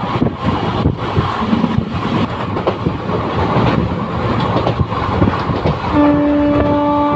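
Train running on the rails, a loud rumble with the clatter of wheels over rail joints. Near the end a locomotive horn starts, one steady blast.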